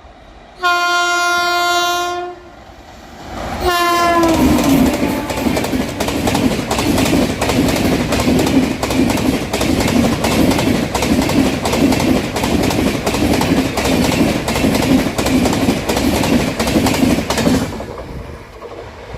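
Express train passing at speed: two horn blasts, the second dropping in pitch as the locomotive goes by, then the wheels clattering over the rail joints in a fast, even rhythm until the last coach passes, near the end.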